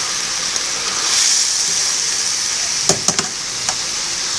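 Chopped banana heart and mushrooms sautéing in a pan, a steady sizzle, while being stirred; a few quick clicks of the utensil against the pan about three seconds in.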